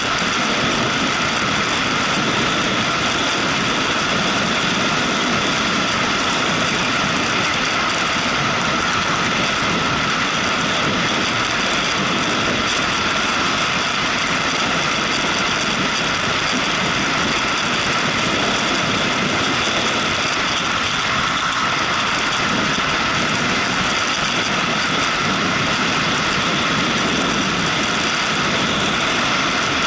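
Motorcycle under way, its engine and the rush of wind and road making one steady, unbroken noise.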